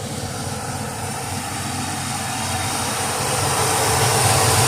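Pontiac 455 V8 in a GMC Sonoma pickup running, a steady low rumble that grows gradually louder.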